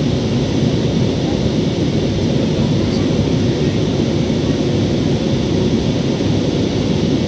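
Steady rumble of jet engines and airflow heard inside an Airbus A320's cabin as it climbs after takeoff.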